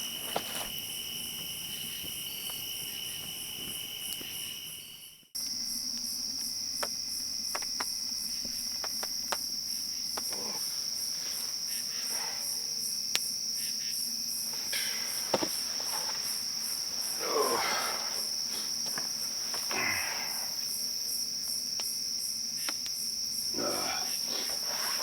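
Crickets and other insects trilling steadily in the woods. The sound cuts out for a moment about five seconds in and comes back as one steady high trill, with a few faint short sounds over it later on.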